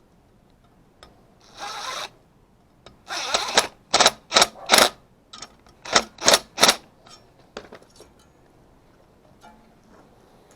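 Two drawn-out rasping scrapes, then two quick runs of three short, sharp scraping strokes, as from hand work with a tool.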